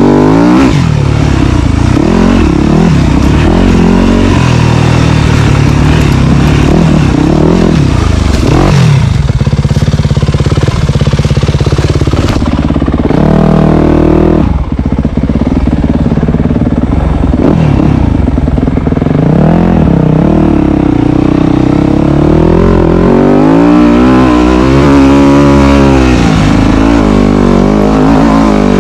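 Dirt bike engine running hard and close, revving up and down over and over as the throttle is worked, its pitch repeatedly climbing and dropping.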